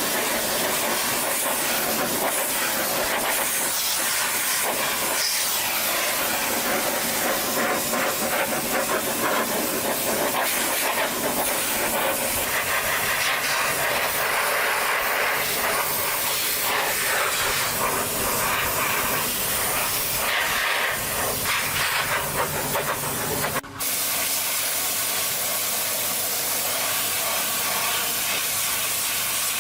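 Loud, steady hissing noise, broken for an instant near the end.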